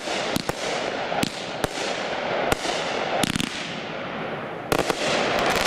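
Consumer fireworks cake firing: irregular sharp bangs of breaking shells over a steady crackling hiss, with a quick flurry of reports near the end.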